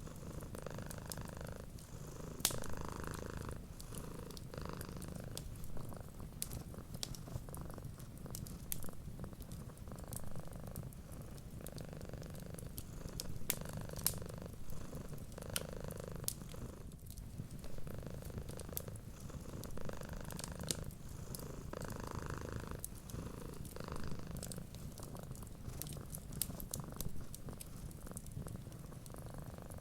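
Cats purring steadily, rising and falling in slow swells with each breath, over scattered sharp pops and crackles from a wood fire.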